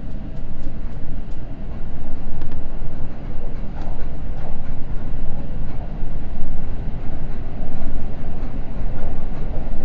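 Cabin running noise of a Seibu Red Arrow limited express train in motion: a steady rumble of wheels on rail, with a few faint clicks.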